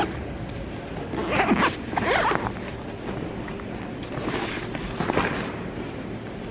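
Four short rasping strokes, the first two the loudest, over a steady low background rumble.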